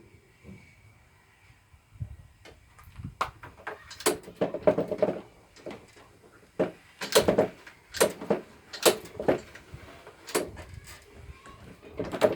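A run of irregular knocks and clattering, some with a brief metallic ring, with no engine running.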